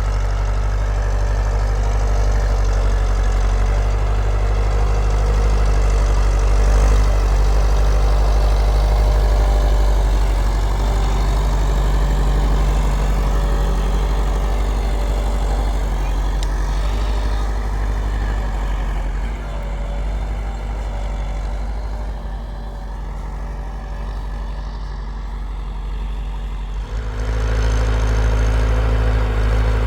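Tractor engine running steadily, its low, even note easing off somewhat past the middle and coming back louder near the end.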